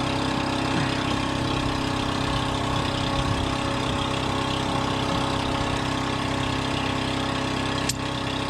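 An engine idling steadily, with one brief click near the end.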